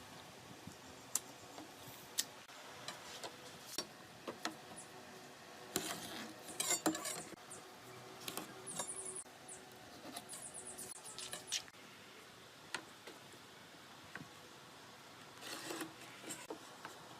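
Workshop handling sounds: scattered sharp clicks and knocks of tools and wood being handled. About nine seconds in, and again around ten to eleven seconds, there are short runs of rapid ratcheting clicks.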